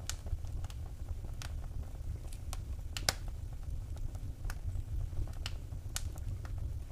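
Wood fire in a fireplace crackling: irregular sharp pops and snaps, the strongest about three seconds in, over a steady low rumble.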